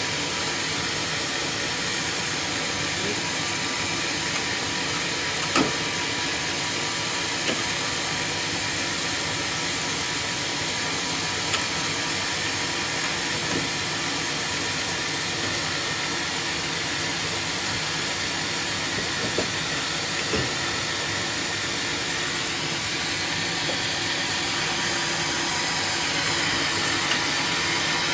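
Homemade sawmill running steadily, its saw and motor making a constant machine noise, with a few sharp clicks along the way.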